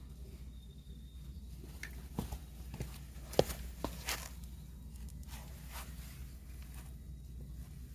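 Scattered snaps and knocks at a wood fire in a fire pit, the sharpest about three and a half seconds in, over a steady low rumble.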